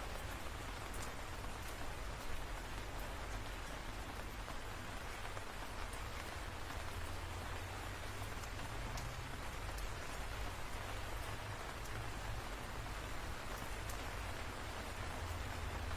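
Steady rain falling, with scattered sharper drop ticks and a low rumble underneath.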